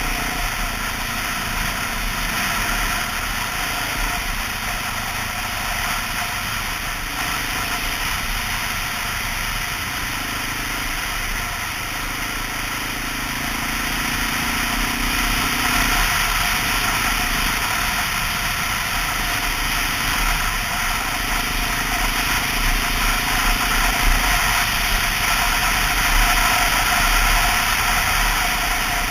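Honda XR650L's single-cylinder four-stroke engine running steadily under way, getting a little louder about halfway through.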